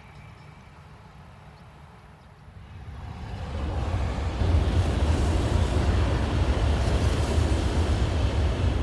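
N700A Shinkansen bullet train passing at high speed. A low steady hum is heard first, then about three seconds in a rushing noise rises quickly and stays loud.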